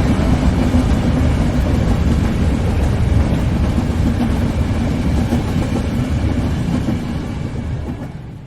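Train running by: a steady, loud rumble of wheels on rail that fades away over the last second or so.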